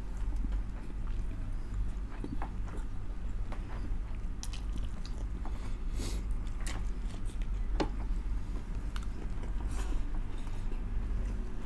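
Close-miked chewing and mouth smacks of people eating rice and dinuguan (pork blood stew) by hand: scattered short wet clicks over a steady low hum.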